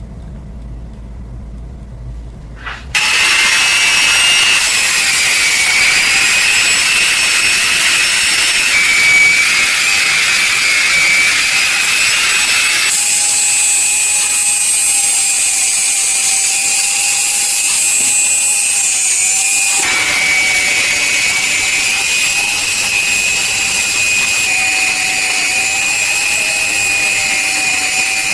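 A low rumble, then about three seconds in an electric power tool starts up and runs with a steady high-pitched whine, its tone changing at about 13 and 20 seconds as the load shifts.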